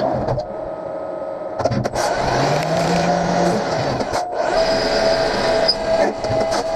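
CNC machine running and cutting metal: a steady high spindle whine over cutting noise and scattered clicks, with a lower tone that rises and falls midway. The sound breaks off abruptly a couple of times.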